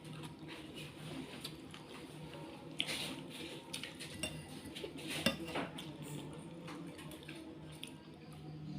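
Cutlery clinking and scraping against a noodle bowl during eating: scattered light clicks, a few louder ones about three and five seconds in, over a steady low hum.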